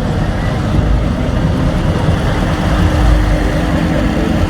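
Loud, steady, low rumble of vehicle engines running.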